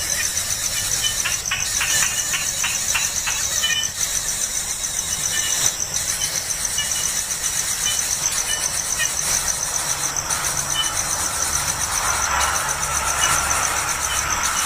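A steady, high, pulsing insect trill, with short high chirps and squeaks breaking in now and then.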